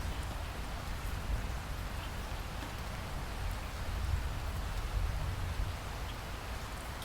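Steady rainfall: an even hiss with scattered drop ticks, over a low rumble that swells briefly around four to five and a half seconds in.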